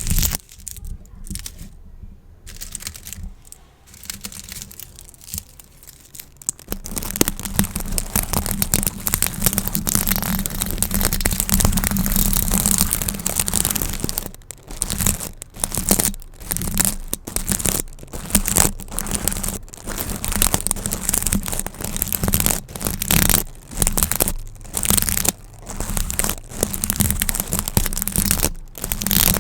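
Gift bows crinkling and crackling as they are squeezed and handled. Quieter for the first several seconds, then dense and continuous, and from about halfway in it comes as a run of short squeezes with brief pauses between them.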